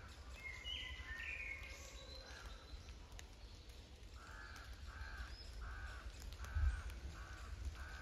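Forest birds calling. A short run of high chirps comes in the first two seconds, then a bird gives six evenly spaced calls, about two-thirds of a second apart, over faint rain drips and a low rumble. A single low thump comes near the end.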